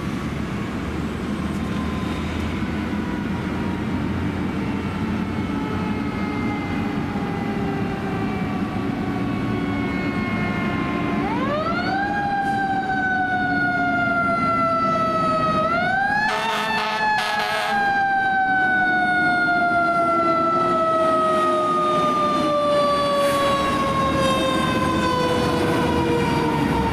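Fire engine's mechanical siren winding: its pitch sinks slowly as it coasts, then spins up sharply about 11 seconds in and again about 16 seconds in, each time falling slowly away, over the truck's low engine rumble. A brief loud burst, likely horn blasts, cuts in about 16 to 18 seconds in.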